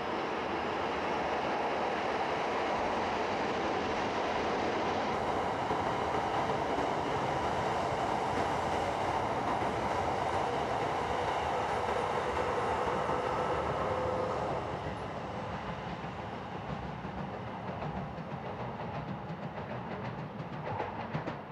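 E8 series Shinkansen trainset running slowly along the track, a steady rolling noise of wheels on rails. It gets quieter about fourteen seconds in, and light rhythmic clatter over the rails can be heard after that.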